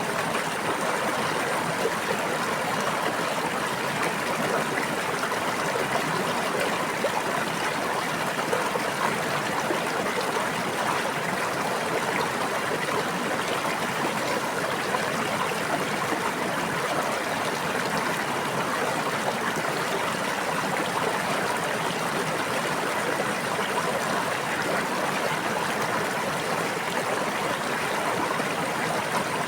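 A small stream or brook running steadily over stones: a continuous babbling of water with no breaks.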